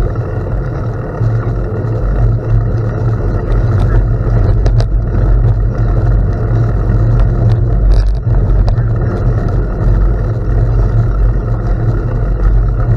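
Wind buffeting the microphone during a gravel bike ride, a loud steady rumble with tyre noise underneath. A few brief clicks come about five and eight seconds in.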